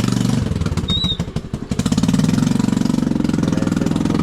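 Honda Navi's small single-cylinder engine running, dropping to a slow, uneven idle about half a second in and picking back up to a steady hum about two seconds in. A brief high squeak comes about a second in.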